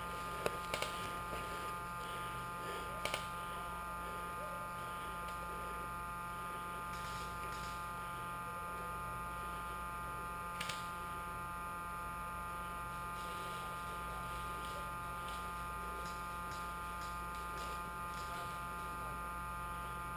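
Steady electrical hum with several fixed tones, with a few faint clicks, two of them in quick pairs about three seconds in and near the middle.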